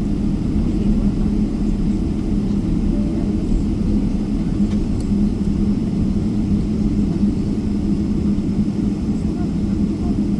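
Cabin noise of a Boeing 777-300ER taxiing, heard from inside: its GE90 engines running at idle, giving a steady low hum over a rumble.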